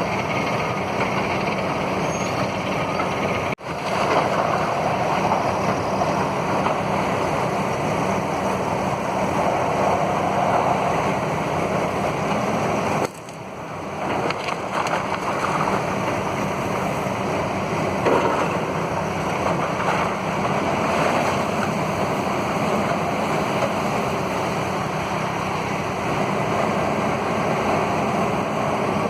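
Heavy demolition machinery running steadily, an engine drone under a continuous rumble of working noise. It drops out briefly twice, about three and a half seconds in and again about thirteen seconds in.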